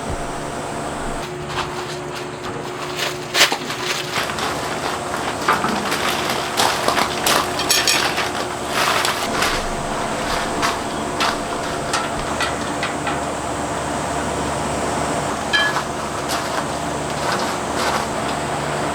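Steady rain noise with irregular knocks and clatter of gear being handled, busiest in the first half and thinning out later.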